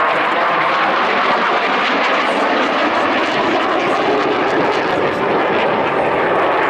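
Jet engine noise from a MiG-29 fighter's twin Klimov RD-33 turbofans: a loud, steady rushing noise with no clear rise or fall in pitch.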